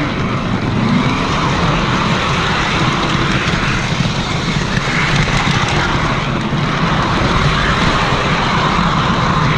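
Model train running along the track, heard up close from a camera riding on the train: a steady, loud rumble of wheels on rail and motor hum that cuts off suddenly just after the end.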